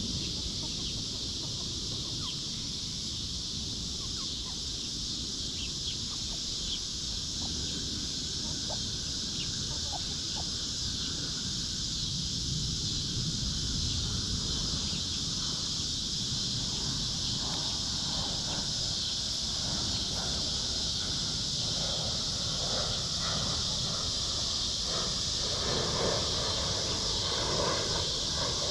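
Free-range hens clucking as they forage, the clucking growing busier in the second half, over a steady high hiss and a low wind rumble.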